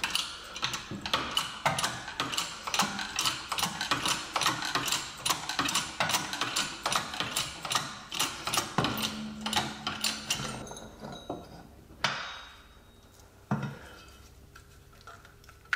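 A hand ratchet clicking in quick, repeated strokes as a press-and-pull sleeve kit is tightened to force a rubber suspension bushing out of a front lower control arm. It stops about two-thirds of the way in, and a couple of single clicks follow.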